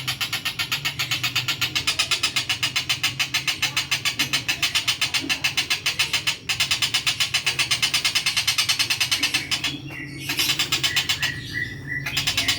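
Kingfisher (tengkek buto) calling, a fast, even series of harsh repeated notes, about five or six a second, with short breaks about halfway and near the end, over a steady low hum.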